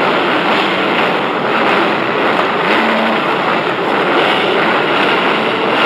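Many motocross motorcycle engines running together, a steady dense din with no single bike standing out.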